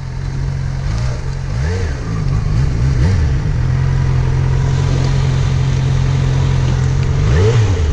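Yamaha FZ6R's 600 cc inline-four engine running under way. Its pitch rises and falls a few times, holds steady, then swings up and down once more near the end.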